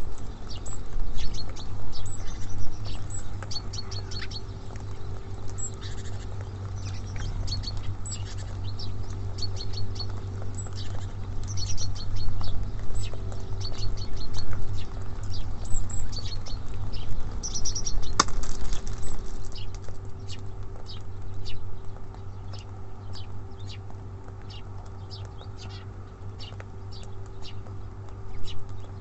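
Small songbirds at a feeder giving many short, high chirps in quick succession, over a steady low hum.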